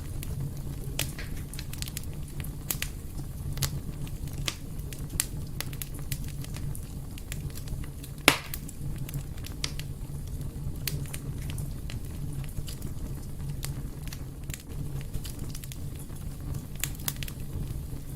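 Wood fire burning in a fireplace: a steady low rumble with frequent scattered crackles and one loud pop a little after the middle.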